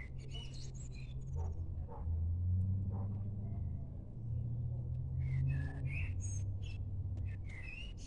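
Small birds chirping in short bursts, at the start, around the middle and near the end, over a continuous low rumble that swells a couple of times.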